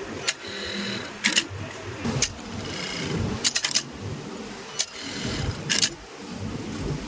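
Sewing machines in a garment workroom: a steady mechanical running noise with irregular sharp clicks and clatters, some in quick clusters of two or three.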